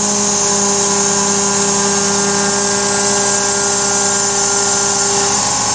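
Carvera Air desktop CNC mill cutting: a steady whine from the spindle and cutter over a constant hiss of compressed air blowing the chips clear.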